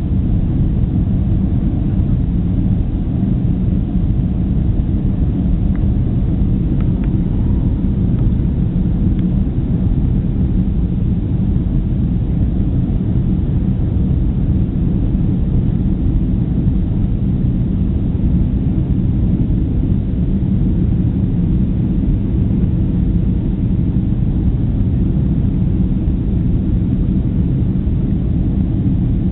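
Jet airliner's engines and airflow, a steady low rumble during takeoff.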